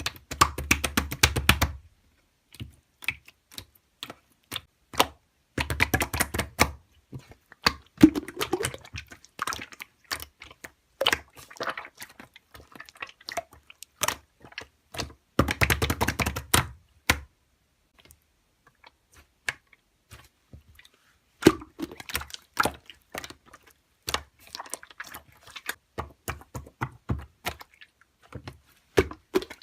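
Quick irregular clicks, packed into dense clusters lasting a second or two near the start, about six seconds in and about sixteen seconds in, with sparser clicks between them.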